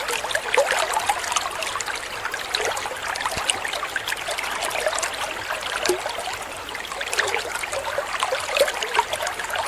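Water of a small waterfall or stream trickling and splashing, a steady dense patter.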